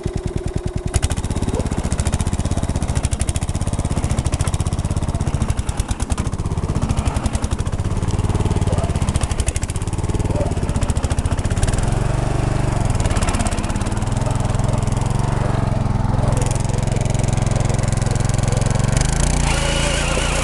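Small tractor's engine running under load, its separate firing beats plain at first, then settling into a steadier, faster drone from about halfway through, with the engine speed rising and falling.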